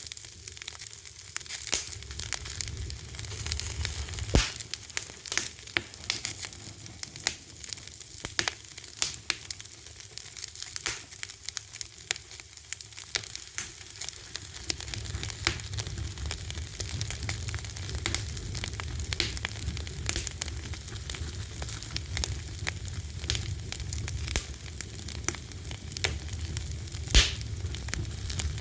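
Fire crackling steadily with many small pops and a couple of louder snaps, over a low rumble that gets stronger about halfway through.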